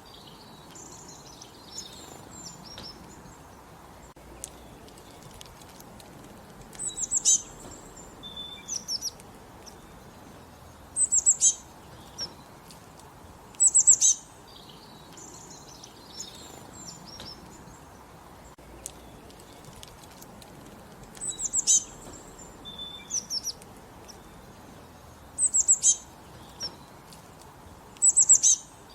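Wild birds singing in open countryside. One bird repeats a short, high, rapid burst of notes about six times, every few seconds, with softer chirps from other birds in between, over a steady faint hiss.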